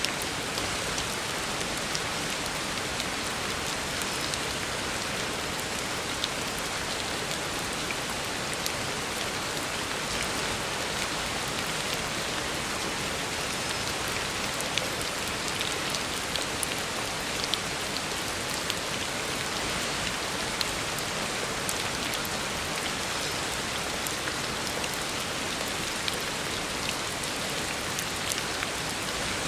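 Heavy rain falling steadily on a road, a dense even hiss with scattered louder drop ticks.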